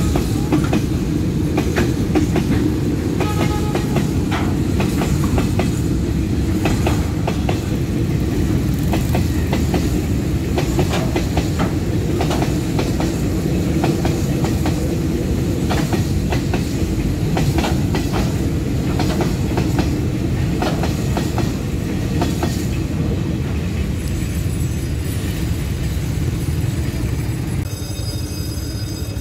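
Container freight train's wagons rolling past close by: a steady heavy rumble with the clickety-clack of wheels over rail joints. The rumble eases slightly near the end as the last wagons go by.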